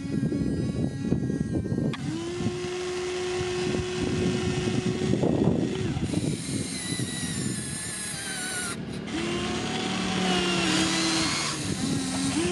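A farm machine's engine running under load, with a rough low rumble and a steady whine that shifts in pitch several times, alongside higher whines that slide downward.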